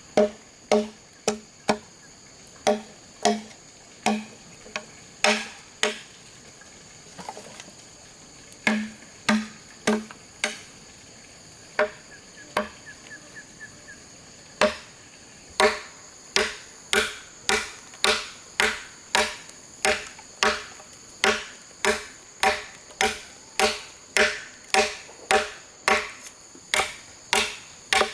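Repeated chopping strikes on bamboo, each a sharp knock with a short hollow ring, about two a second, pausing twice before speeding up. A steady high insect drone runs underneath.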